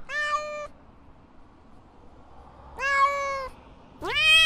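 Domestic cat meowing three times: two short, even meows a couple of seconds apart, then a louder third one that rises in pitch as it begins.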